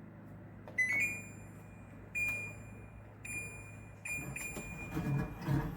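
Short electronic beeps from an appliance control panel, a quick double beep about a second in, then single beeps roughly every second, over a steady low hum. Near the end a louder, rougher machine running sound starts to build.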